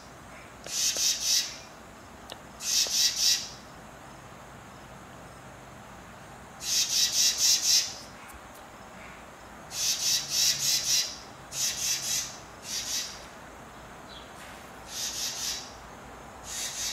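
A small bird giving harsh, rapid chattering calls in about eight bursts of up to a second each, a second or more apart.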